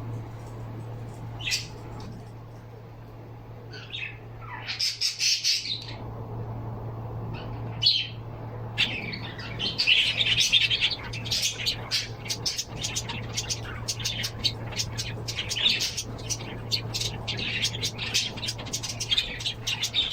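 Pet birds chirping: a few short calls at first, then about nine seconds in a busy run of rapid chirps that keeps going. A steady low hum sits underneath.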